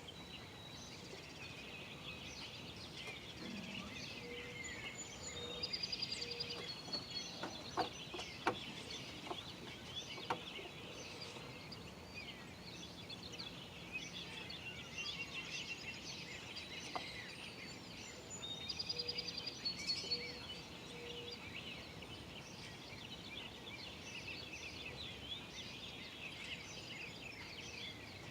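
A dawn chorus of songbirds chirping, with many overlapping calls and trills. Louder bursts of rapid repeated notes come about 6 seconds in and again about 19 seconds in. A few sharp clicks sound around 8 to 10 seconds in.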